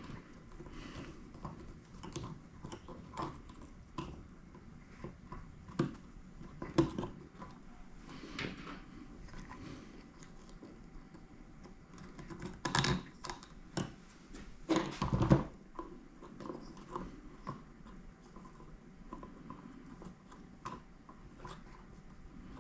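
Small parts and hand tools clicking and clattering on a workbench while an RC truck is reassembled, with two louder bursts of clatter near the middle.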